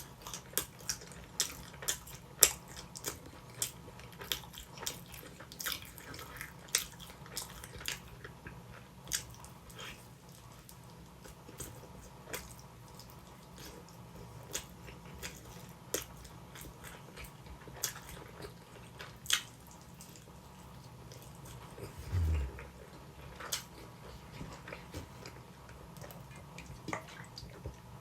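Close-up mouth sounds of someone chewing sweet potato pizza: wet clicks and smacks, frequent for the first several seconds and sparser after. A dull low thump comes about two-thirds of the way through.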